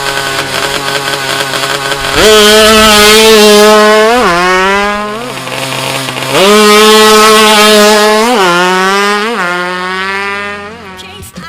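Drag-tuned Yamaha F1ZR two-stroke single, bored out to 116cc, running low for about two seconds, then revved hard twice, each time held high for a few seconds with quick blips before dropping back. The revs die away near the end.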